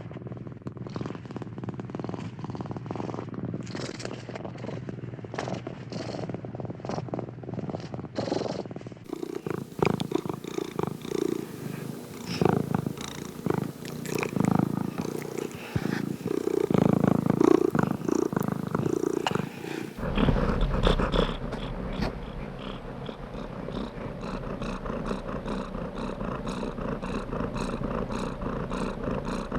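Domestic cat purring in a steady rhythm of breaths, in three spliced recordings that change about a third and two-thirds of the way through; the middle one is louder and deeper.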